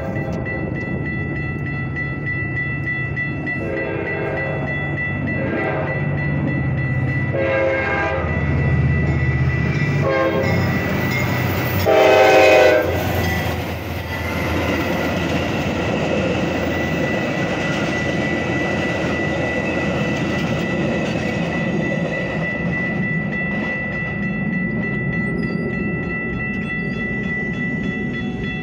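Metra diesel commuter train passing a grade crossing. The locomotive sounds its horn in four blasts, the last and loudest about twelve seconds in, over a low engine hum. The bilevel coaches then rumble and clack over the crossing, with a steady crossing-bell tone throughout.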